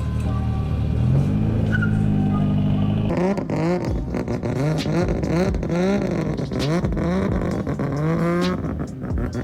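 A car engine revved over and over in quick rising blips, about two a second, starting about three seconds in, with sharp cracks from the exhaust between the revs.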